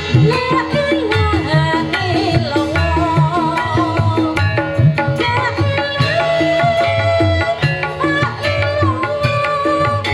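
Javanese gamelan music for a jaranan trance dance: kendang hand drums beating a dense, driving pattern under short repeated metallophone notes, with a wavering melody line running over the top.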